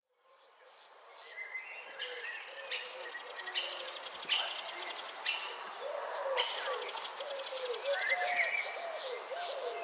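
Nature ambience of many birds calling and chirping, with buzzy insect-like trills repeating about once a second. It fades in over the first second or two, and a thin high whistle comes in briefly near the end.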